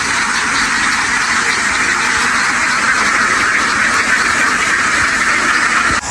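A large flock of domestic ducks quacking all at once in a dense, steady din; it cuts off suddenly near the end.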